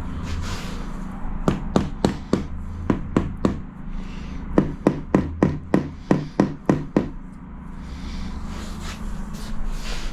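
Quick runs of sharp taps on a ceramic tile, about five a second in three bursts, as the tile is tapped down into place.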